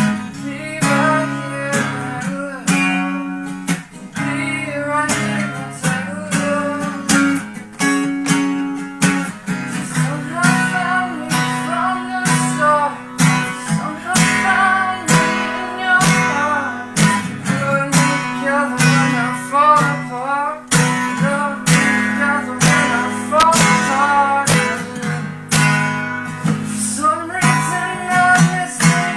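Acoustic guitar strummed in a steady rhythm, playing an acoustic song.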